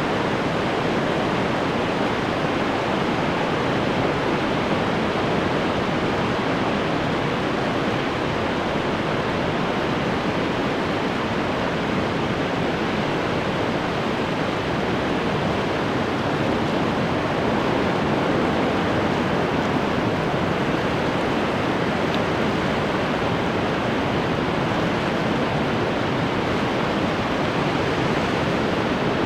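Ocean surf: breaking waves washing on the shore as a steady, even rush with no distinct single wave crashes.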